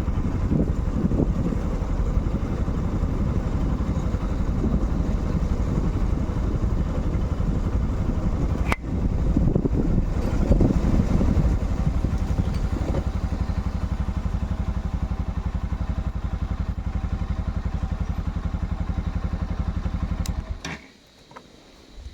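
Motorcycle engine running with a steady low beat, a sharp click a little before halfway and a louder spell just after it, then cutting off suddenly near the end.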